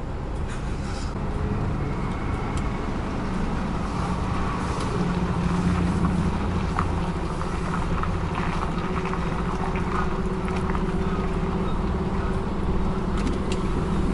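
A lorry's diesel engine heard from inside the cab, driving slowly with a steady low drone that swells slightly about halfway through, with small rattles and clicks over it.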